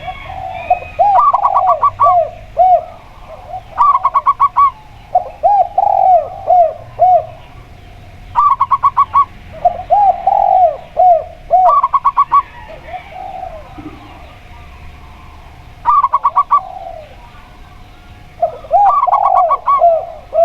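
A zebra dove (perkutut) and a spotted dove (tekukur) calling back and forth: quick runs of short, evenly spaced higher notes recur every few seconds, with lower arched coos in between.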